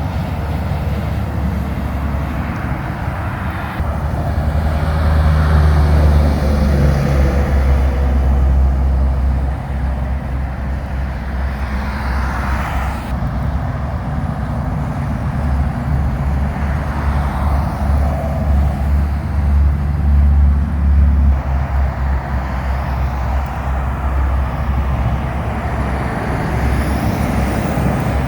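Diesel semi-trucks driving past on a wet road: low engine drone under a constant hiss of tyres and spray. The engine noise swells twice, about four seconds in and again about halfway through.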